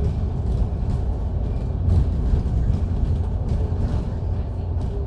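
MAN Lion's City DD (A95) double-decker bus running, heard from inside the cabin: a steady low rumble of engine and running gear.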